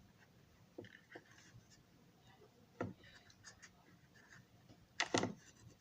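Small plastic parts of a model railroad car being handled and pressed into place: scattered light clicks and taps, with a sharper cluster of clicks about five seconds in.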